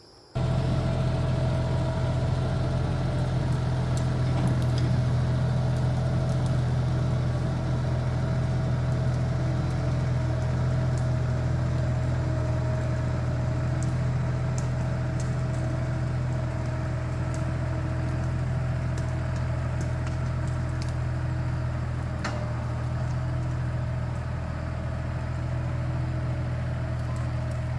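Tractor diesel engine running steadily with a low, even drone that cuts in abruptly just after the start.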